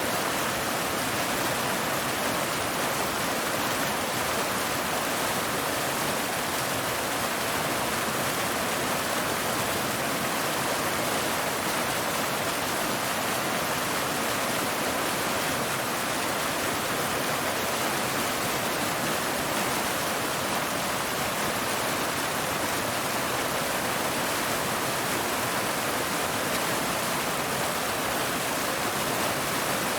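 Waterfall: water pouring steadily over rocks, a constant even rush with no change in level.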